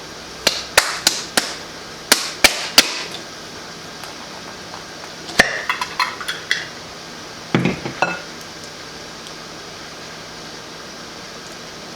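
A utensil knocking and clinking against glassware or a dish while salsa is served onto nacho chips: a quick run of sharp taps, a few more about two seconds in, then clinks that ring briefly, and a duller knock near the end.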